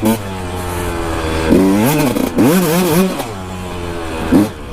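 Kawasaki KX125 two-stroke dirt bike engine running under throttle, its pitch rising and falling sharply twice in the middle and blipping once more near the end.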